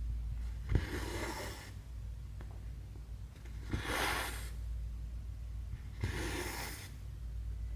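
Hand cross-stitching: three times, a needle clicks through stretched cross-stitch fabric and the thread is drawn through with a short swishing hiss, about every two and a half seconds.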